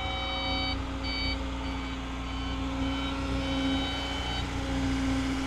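CAT 315 excavator's diesel engine running steadily, with a high-pitched whine over it that cuts off under a second in, comes back briefly, then carries on fainter.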